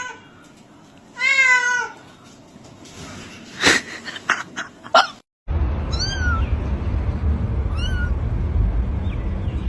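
Domestic cat meowing: one long, wavering meow about a second in, then after a cut, three short high chirp-like meows over a steady low rumble.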